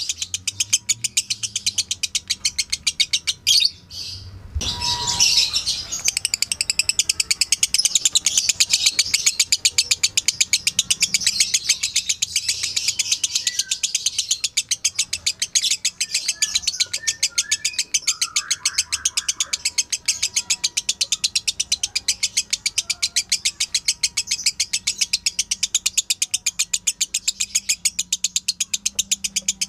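Lovebird chattering: a long run of sharp, high chirps repeated evenly at about three or four a second, with a brief break about four seconds in.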